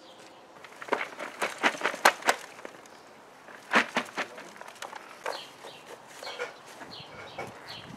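Bird calls: two fast runs of sharp chattering notes, then several short falling chirps.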